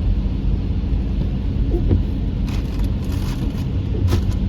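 Steady low rumble of a vehicle, with a few brief higher hissing noises about halfway through and again near the end.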